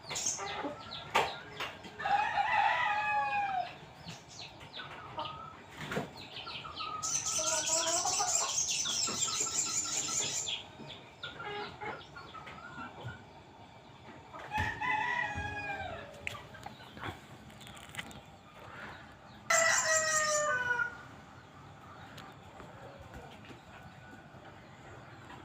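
A sogok ontong (spiderhunter) calling: bursts of rapid, very high-pitched chattering, the longest about three seconds, mixed with louder falling calls about 2, 15 and 20 seconds in.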